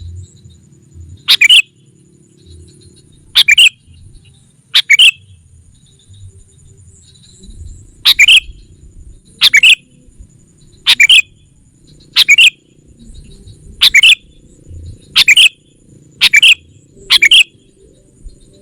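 Sooty-headed bulbul giving loud, short calls, each a quick double note, repeated about every one to two seconds: a lure call to summon rival bulbuls.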